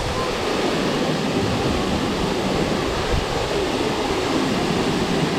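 Waterfall rushing steadily: a dense, even roar of falling water.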